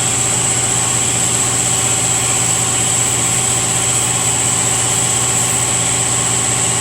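Shop air compressor running steadily: a constant hum with a steady high whine.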